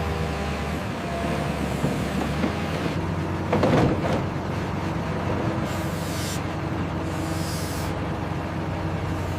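Heavy logging machine's diesel engine running steadily, with a brief, louder crackling burst about three and a half seconds in.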